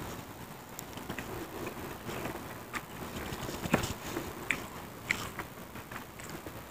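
Close-up eating sounds: chewing with scattered sharp crunches of cassava chili crackers (kerupuk cabe), and a few short clicks as a spoon scoops from the plate.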